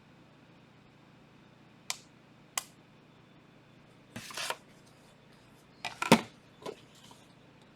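Trading cards and their packaging handled on a table: a few sharp clicks and taps, a short rustle about four seconds in, and a cluster of taps just after six seconds, the loudest of them.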